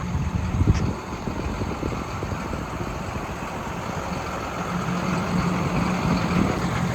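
Diesel engine of a 2020 Hino 338 box truck idling steadily, with a single brief knock under a second in.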